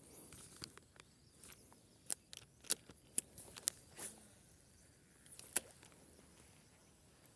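A handful of sharp, scattered clicks and ticks over a faint outdoor background, grouped between about two and six seconds in.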